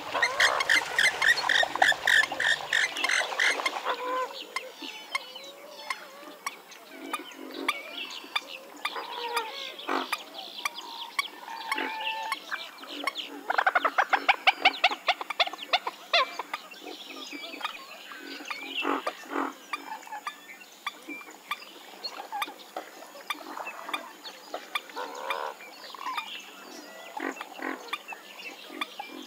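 Western swamphen calling: a loud, rapid run of repeated notes in the first few seconds, then quieter scattered calls, and another loud rapid run about fourteen seconds in.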